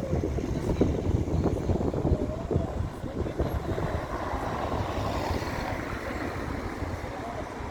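Outdoor street noise with wind buffeting the phone's microphone and road traffic; a vehicle sound swells and fades about four to six seconds in.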